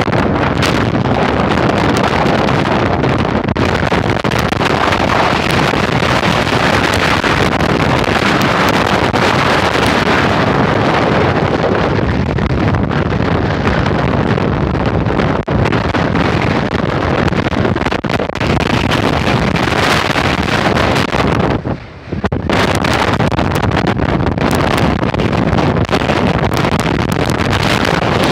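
Strong gusting wind blasting across the microphone: a loud, continuous rushing roar. It drops out briefly about three-quarters of the way through.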